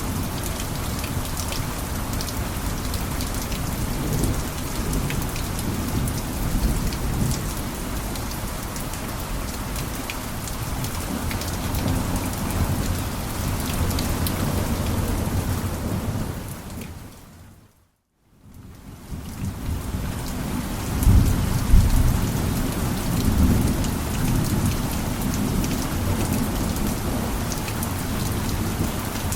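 Heavy rain falling on a roof, a steady hiss with a deep low rumble. About two-thirds of the way through it fades out to silence and fades straight back in, where the recording loops.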